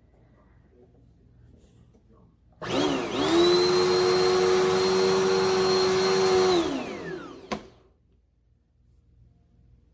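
Dirt Devil Endura Lite bagless upright vacuum cleaner switched on about two and a half seconds in. Its motor spins up to a steady whine for about four seconds, then is switched off and winds down with a falling pitch, followed by a single sharp click.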